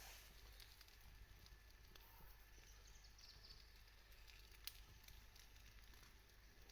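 Faint campfire crackling: scattered small clicks, with one sharper pop about two-thirds of the way through.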